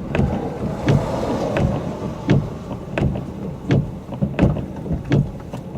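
Road noise inside a moving car, a steady low rumble with a short thump about every three quarters of a second.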